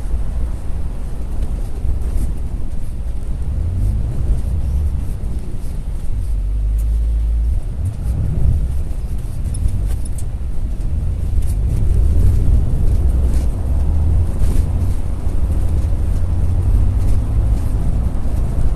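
Low, steady rumble of a moving double-decker bus, with a few faint clicks.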